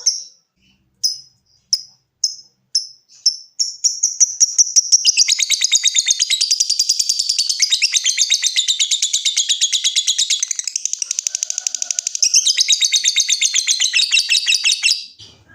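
Lovebird calling: separate sharp high chirps (ngetik) that come faster and faster, then about five seconds in a long rapid chattering trill (ngekek) that goes on for about ten seconds and stops just before the end.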